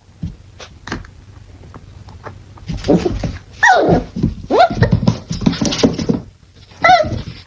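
A dog vocalizing: after about three seconds of quiet with faint clicks, several short cries that fall in pitch.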